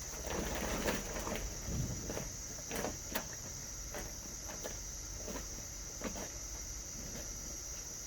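Hands sifting and rummaging through loose compost, with irregular rustling and crackling, busiest in about the first second and then in scattered short handfuls.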